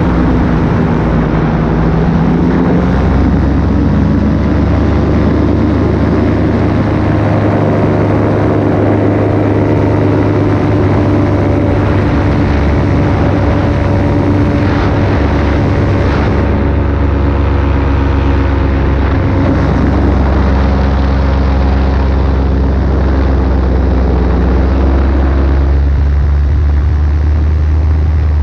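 Paramotor engine and propeller running at steady cruise power in flight, loud and even, with small shifts in pitch as the throttle moves slightly near the start and again near the end.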